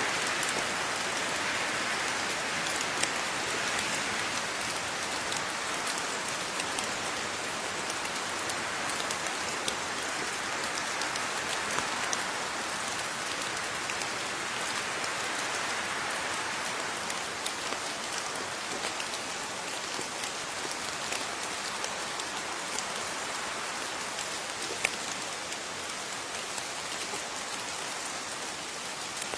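Steady rain falling, with many individual drops pattering and clicking on a surface.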